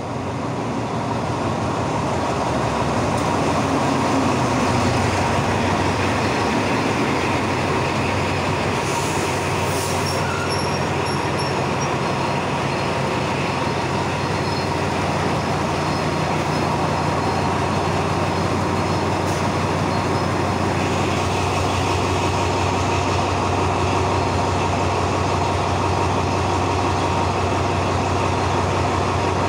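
Diesel locomotive and train rolling past close by, a steady engine drone with wheel rumble that builds over the first few seconds as the train comes in. A brief high metallic squeal, wheel or brake squeal, sounds about ten seconds in.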